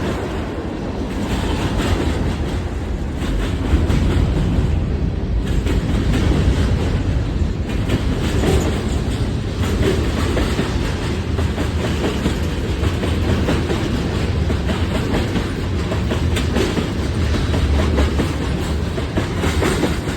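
Huron & Eastern freight train rolling past, a steady rumble with the wheels clicking over the rail joints.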